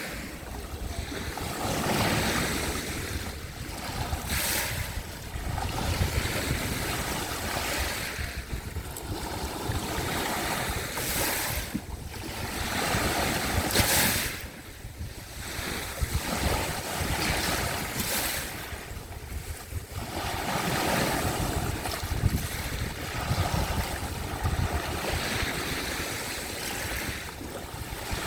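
Sea waves washing onto the shore in surges every few seconds, each swell hissing up and then ebbing, with wind rumbling on the microphone.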